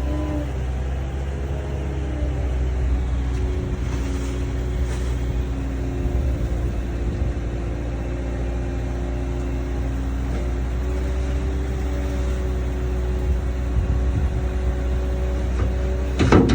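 2007 Toyota Tundra pickup running steadily, a constant low drone with a few held tones that drift slowly in pitch. A sharp knock sounds near the end.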